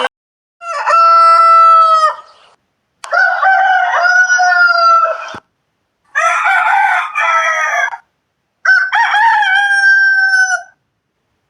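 Rooster crowing: four long cock-a-doodle-doo calls, one after another with short silent gaps between them.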